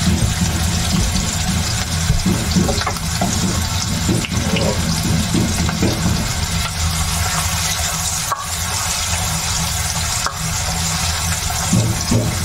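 Garlic, green chillies and ginger frying in hot oil in a steel kadhai: a steady sizzling hiss, over a low steady hum.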